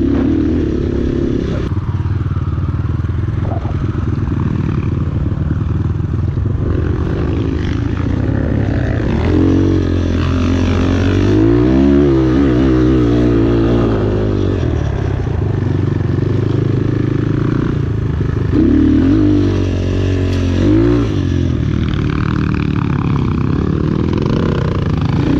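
Enduro motorcycle engine running under way, its pitch rising and falling as the throttle is opened and closed again and again, with the sharpest revs around the middle and a few more in the second half.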